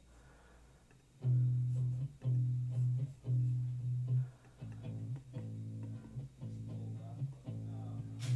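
Recorded bass guitar track played back through a digital mixer during a virtual sound check, a run of sustained low notes starting about a second in.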